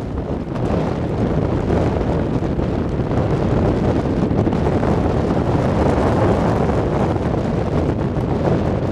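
Wind buffeting the microphone outdoors: a steady, fairly loud rush of noise with a heavy low rumble.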